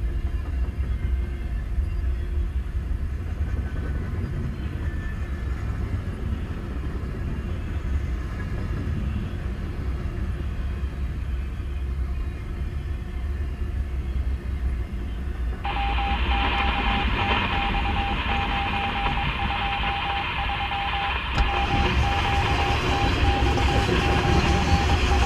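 Freight train of covered hoppers and tank cars rolling past, a steady low rumble heard from inside a stopped car. About two-thirds of the way through, a steady hiss with a single held tone cuts in suddenly, like a radio receiver's static, and carries on over the rumble.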